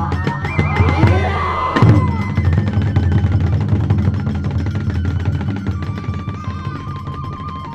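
Kagura accompaniment music: drumming, with sliding tones and a loud crash near two seconds in. The music then eases into held flute-like notes and fades gradually.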